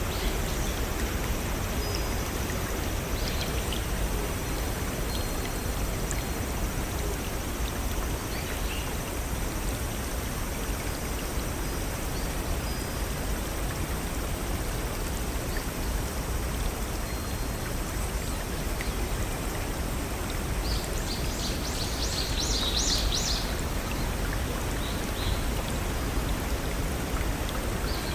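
Steady rush of a small forest stream and waterfalls. A few faint bird chirps early on, and a quick bird trill of several rapid high notes about three-quarters of the way through.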